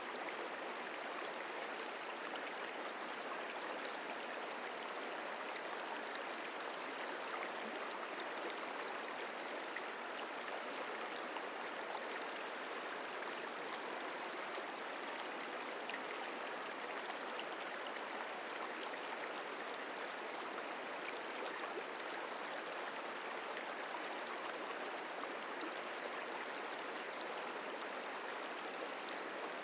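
The Merced River flowing, a steady, even rush of moving water.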